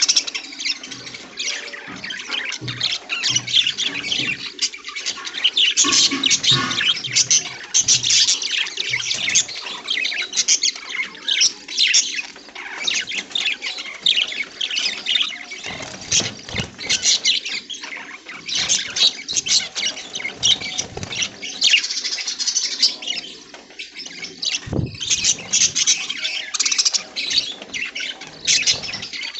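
A flock of budgerigars chirping and squawking continuously in busy, overlapping chatter, with a single low knock about three quarters through.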